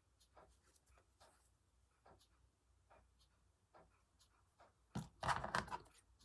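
Faint scratchy rustles of hand-sewing: needle and thread drawn through fabric in short, irregular strokes, with a louder rustle of fabric being handled about five seconds in.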